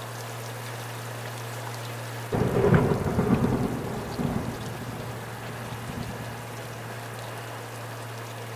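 Steady rain hissing, with a clap of thunder about two seconds in that rumbles loudly and dies away over a few seconds.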